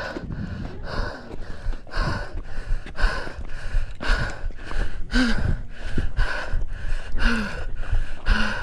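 A runner breathing hard and fast from the exertion of a steep uphill run, about two loud breaths a second, with a low rumble of wind on the microphone beneath.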